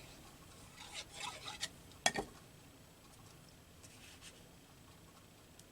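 Paper cutouts being handled and pressed onto a collage page: soft rustling and rubbing, with one sharp click about two seconds in.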